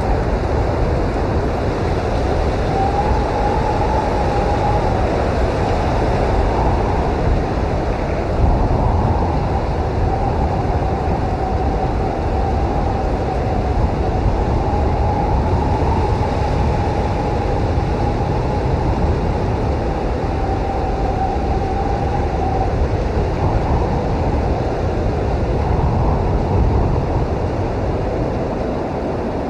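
Blizzard wind blowing steadily with a deep rumble, a thin whistle wavering over it through most of the middle and fading out near the end.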